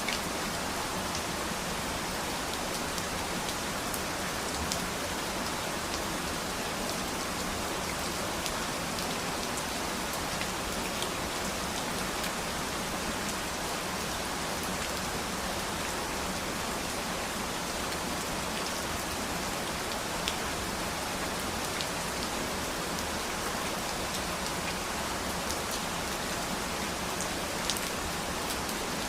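Steady rain falling and pattering on a surface, an even hiss with scattered individual drops ticking.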